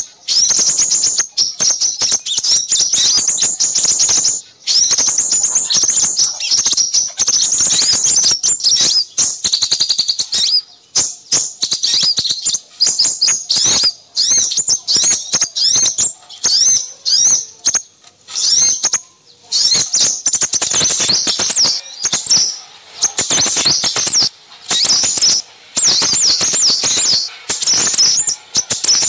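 Dense, rapid high-pitched chirping and twittering of small birds, with scarcely a pause. It is a bird-trapping lure recording of noisy small-bird calls meant to draw in crimson sunbirds.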